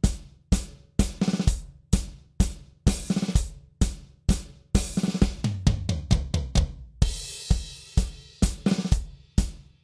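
Acoustic drum kit playing a tango rhythm, steady bass and snare strokes about twice a second with quick snare five-stroke rolls in between. A cymbal rings out about seven seconds in.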